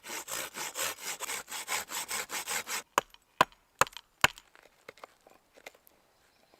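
A hand saw cutting through a wooden stick with quick, even strokes for nearly three seconds, then four sharp wooden knocks or cracks.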